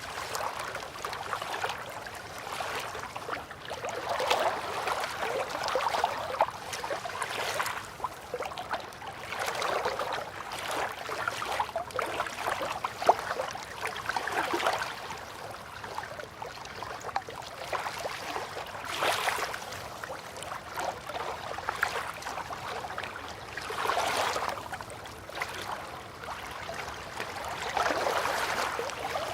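River water lapping and splashing gently at the bank, swelling and easing every few seconds.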